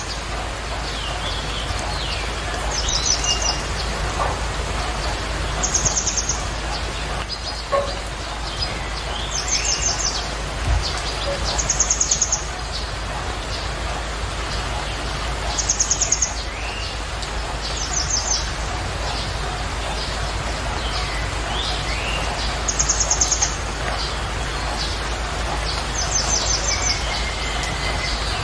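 Birds chirping: a short, high, rapid trill recurs every few seconds, with softer whistled calls between, over a steady hiss.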